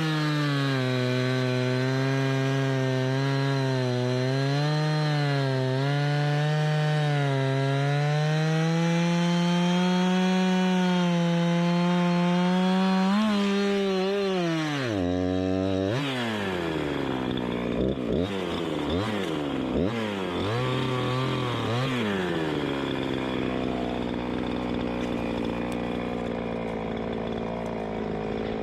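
Two-stroke chainsaw cutting wood, its engine pitch wavering under load. About halfway through it drops off the cut, is revved up and down several times, then runs on at a steady, lower speed.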